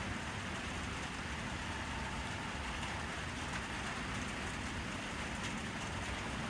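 Steady rain falling, an even unbroken hiss, with a faint low steady hum underneath.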